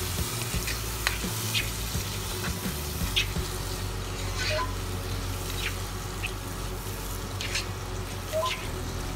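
Onions, spice powders and chopped tomatoes sizzling in hot sunflower oil in a pan. A spoon stirring them clinks and scrapes against the pan now and then.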